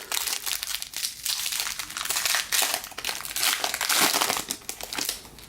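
Foil wrapper of a jumbo pack of baseball trading cards crinkling as it is handled and opened: a dense run of crackles that stops near the end.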